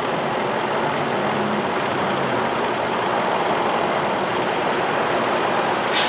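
2003 Infiniti M45's 4.5-litre V8 idling steadily with the ignition coil on cylinder 4 giving no spark signal: a misfiring idle from a failed coil. One sharp click near the end.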